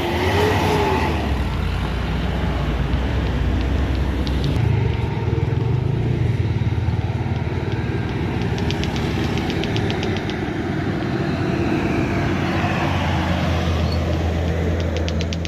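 Intercity bus engine running as the bus passes on the hill climb, with a fast ticking of about seven ticks a second for a couple of seconds in the middle and again near the end.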